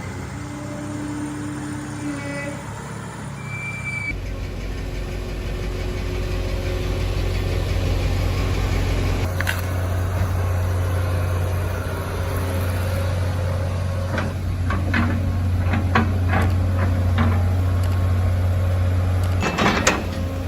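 Heavy machine's engine running steadily at a low pitch. In the last third come scattered knocks and clanks, with a loud cluster of them near the end.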